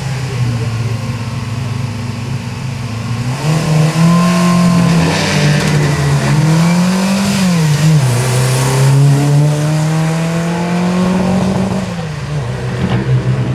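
Small hatchback rally car's engine ticking over at the start line, then revving up and pulling away hard about three seconds in. It accelerates through the gears, the revs climbing and dropping at each change, then eases off near the end.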